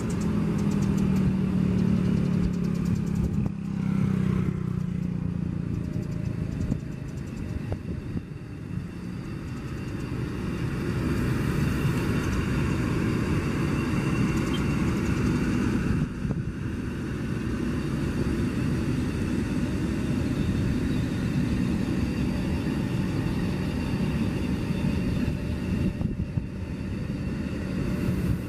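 KCIC400AF high-speed inspection train, a CR400AF-type electric train, rolling slowly past on the track: a steady rumble of wheels and running gear, with a low hum during the first few seconds.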